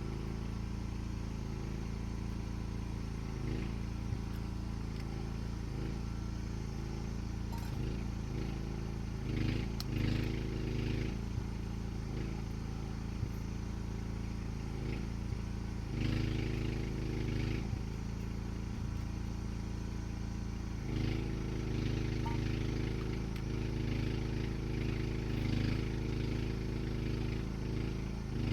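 An engine running steadily, its note swelling louder several times, around a third of the way in, about halfway, and through most of the last third.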